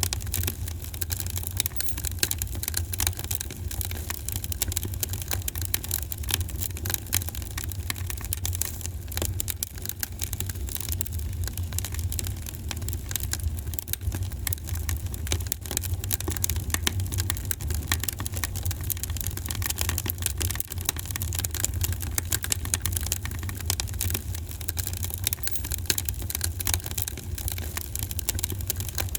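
Wood fire in a fireplace crackling without pause, with many small sharp pops over a steady low rumble.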